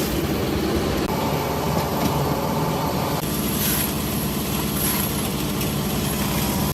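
Factory machinery running steadily: a continuous mechanical hum with a thin high whine over it and a few faint clicks.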